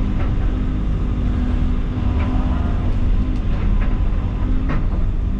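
Heavy equipment's diesel engine running steadily at working speed, with a few sharp knocks over it while the machine clears trees.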